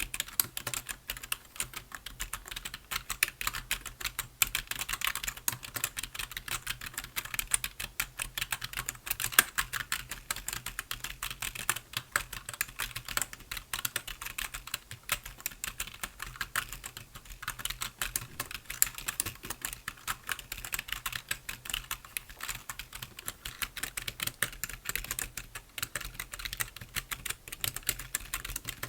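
Continuous typing on a computer keyboard: a dense, irregular run of key clicks.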